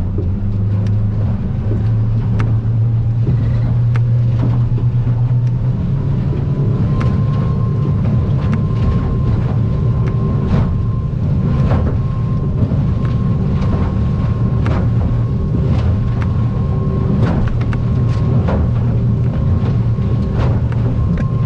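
Aluminium boat's outboard engine running steadily at planing speed. The hull makes repeated sharp slaps and knocks, about one or two a second, as it crosses the swells.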